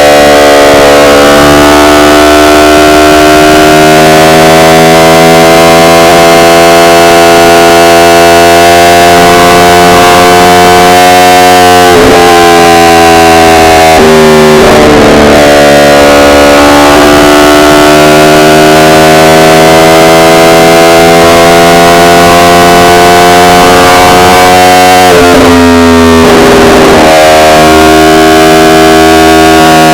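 Yamaha R1 inline-four engine running at steady revs under way, its pitch drifting slowly. The pitch drops and climbs back about twelve and fifteen seconds in, and again a few seconds before the end.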